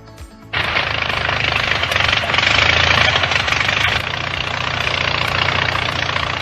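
A propeller aircraft's piston engine running steadily, a loud rushing drone over a low rumble, cutting in suddenly about half a second in.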